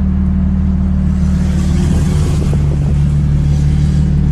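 Nissan 350Z's V6 with aftermarket Y-pipe, high-flow cats and titanium blast pipes droning steadily while the car cruises, heard from inside the cabin. A hissing rush swells and fades in the middle, and the drone drops a step in pitch about two and a half seconds in.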